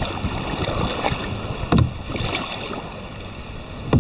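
Water sloshing and splashing against a kayak under way, with two louder splashes, about two seconds in and near the end.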